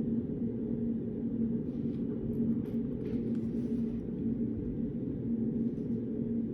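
Steady low room hum with a faint constant tone: the background noise of a study room. A few faint light taps or rustles come about two to three and a half seconds in.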